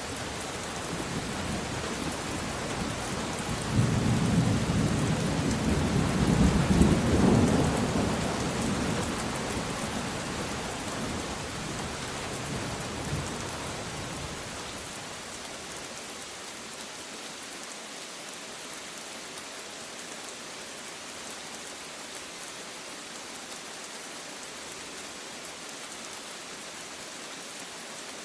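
Steady rain with a roll of thunder. The thunder rumbles in about four seconds in, is loudest a few seconds later, and slowly dies away by about the middle, leaving the rain alone.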